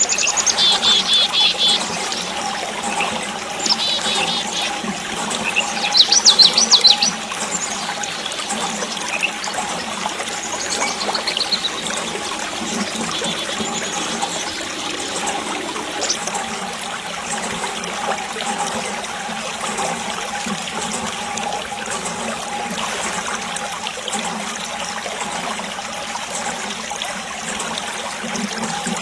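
Water trickling and pouring from a miniature DIY water pump, with a faint steady hum. Brief high chirping squeaks come near the start and again about six seconds in, the second set the loudest.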